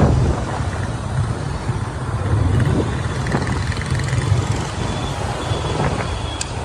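Wind buffeting the microphone on a moving motorbike, with a steady din of street traffic and engines underneath.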